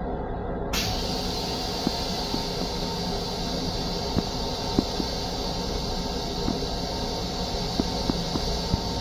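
Metro-North M7 electric railcar running: a steady low rumble with scattered clicks and knocks from the moving car. A steady high hiss sets in under a second in.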